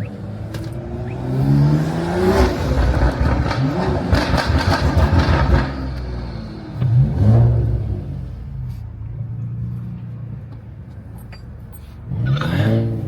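BMW straight-six with an aftermarket exhaust revved hard several times, with a rapid run of exhaust pops and crackles after the first rev and a steady idle between the later revs.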